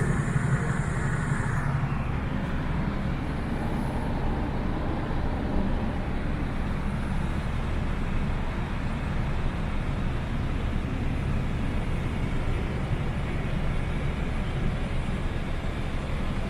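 Heavy vehicle engine running steadily, with an even low-pitched drone; a brighter, slightly louder stretch in the first two seconds settles down after that.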